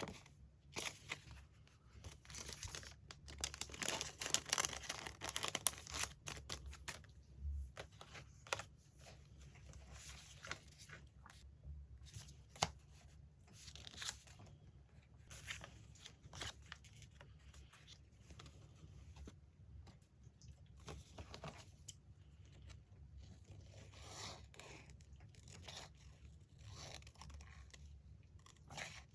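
Magazine paper being torn and handled in many short, crisp strokes, busiest in the first several seconds and then coming more sparsely.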